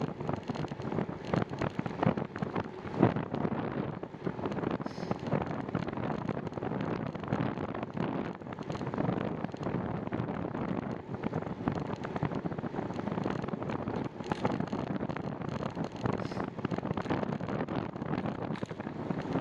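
Wind buffeting the microphone of a camera on a moving bicycle, a steady rushing noise with irregular gusts.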